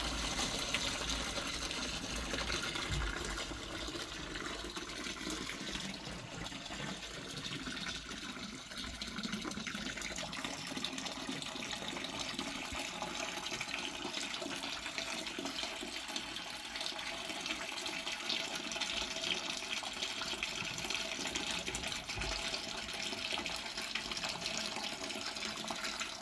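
Water running steadily out of a plastic pipe, a continuous even splash and gurgle.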